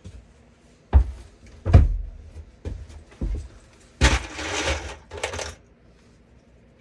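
Four heavy thuds and knocks, then about a second of scraping and a shorter scrape after, from building work on a closet floor's framing.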